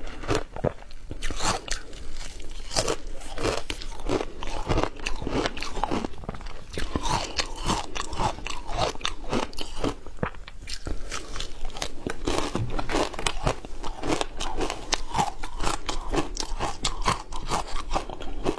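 A person biting and chewing frozen matcha ice, with many sharp crunches in quick, irregular succession.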